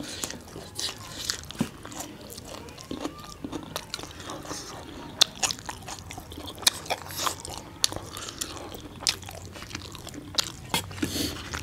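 Close-miked eating sounds of chole bhature and raw onion being eaten: chewing and wet mouth smacks, with many short sharp clicks scattered irregularly throughout.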